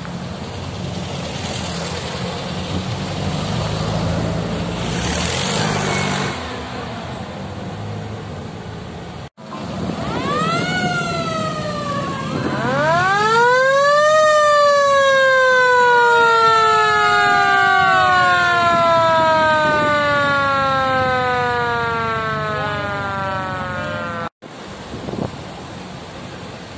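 A siren winding up twice to a peak and then slowly winding down over about ten seconds, with a second siren tone gliding alongside it.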